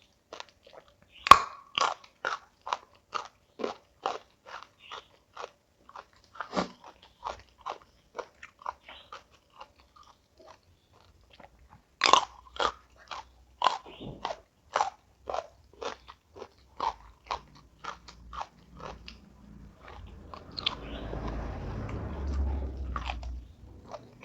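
Crunchy food being bitten and chewed close to the microphone: steady crunches at about two to three a second, stopping briefly midway and then resuming. Near the end comes a few seconds of rustling noise.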